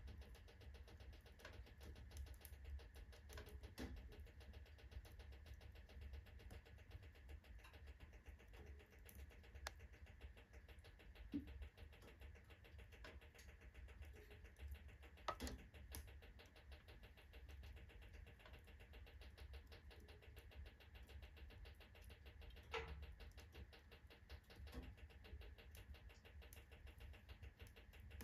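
Wood fire burning quietly, with scattered faint crackles and pops from the burning logs, the sharpest pops about 15 seconds in and again near 23 seconds.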